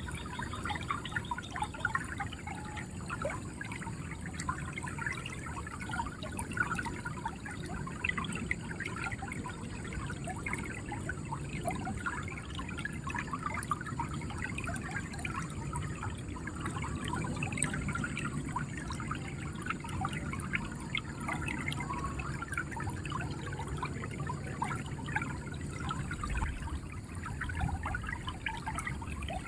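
River water flowing steadily, with a continuous gurgle and trickle.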